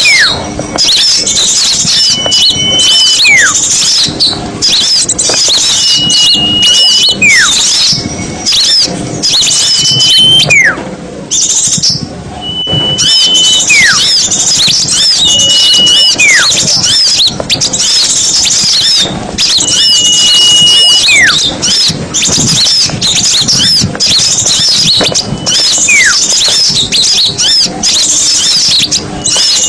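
Small-bird lure recording: a dense, busy chatter of many small songbirds calling at once, high-pitched. Over it, every two or three seconds, a whistle holds steady for about a second, then slides steeply down.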